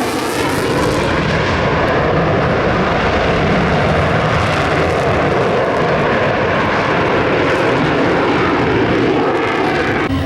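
Fixed-wing aircraft flying past low, a loud, steady engine roar that shifts in pitch as it passes.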